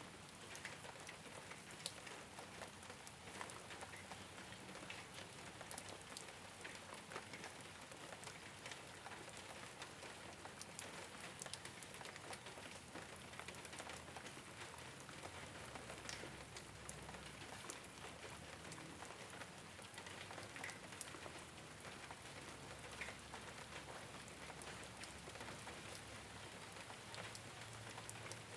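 Steady rain falling on a rooftop: an even hiss with many small drop ticks scattered through it, a few of them louder.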